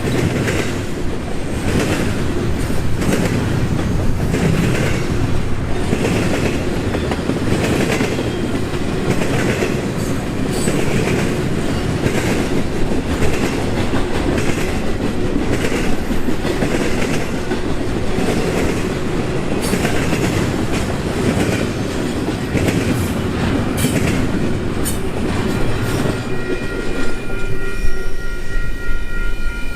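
Union Pacific intermodal freight train rolling past a grade crossing: a steady rumble of the cars with a regular clickety-clack of wheels over rail joints. Near the end a steady high-pitched tone comes in over the rumble.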